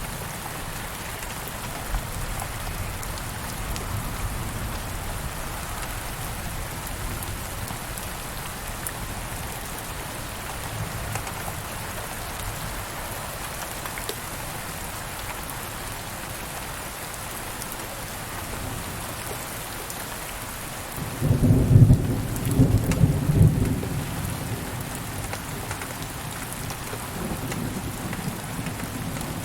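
Steady rain falling, with a loud clap of thunder rumbling low about three-quarters of the way through and fading over a few seconds, and more thunder building again near the end.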